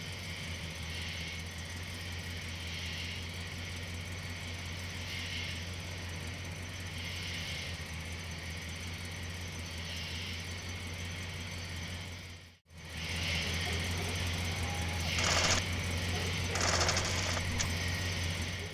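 Idling car engine, a steady low rumble, under a fainter higher chirring that swells every couple of seconds. The sound drops out for a moment about two-thirds of the way through, then resumes, with two louder bursts about a second and a half apart near the end.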